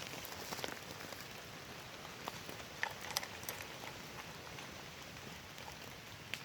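Rain falling steadily, an even hiss with a few sharper ticks of single drops about halfway through.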